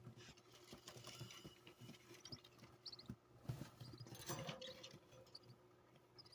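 Faint scratching and rustling of budgerigars shuffling about, with a few brief high chirps.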